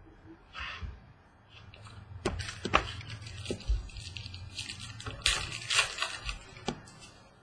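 Trading cards and pack wrapper being handled: crisp rustling and crinkling with a few sharp clicks, busiest in the middle few seconds.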